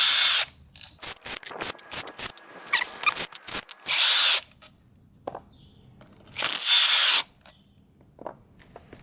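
A power tool run in three short bursts, backing out bolts from a dirt bike engine's clutch-side case. Quick metallic clicks and rattles of parts being handled come between the first two bursts.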